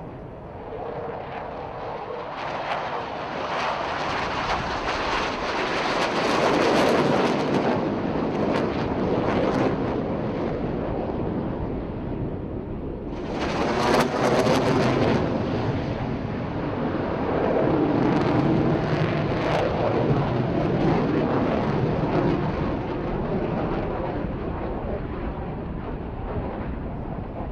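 Jet engine noise from the Republic of Korea Air Force Black Eagles' T-50B aerobatic jets making display passes. The noise swells and fades several times, with a sudden loud onset about halfway through.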